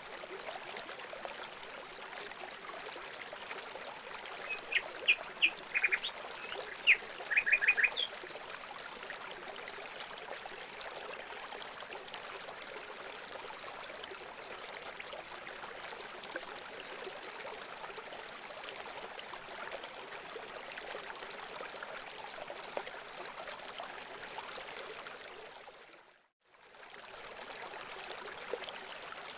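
Steady trickling of running water, with a short burst of loud bird calls, several quick sharp notes, about five to eight seconds in. Near the end the sound briefly fades out and back in.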